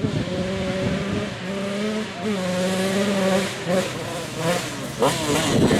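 Café racer motorcycle engines running hard on a dirt track: one engine note held in stretches of about a second, broken by short dips, with quick rising revs near the end.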